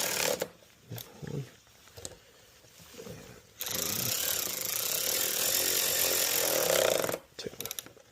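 Power driver running to tighten the hose clamp on a car's air intake duct: a short run that stops about half a second in, then a steady run of about three and a half seconds that cuts off suddenly, with a few small clicks in the pause between.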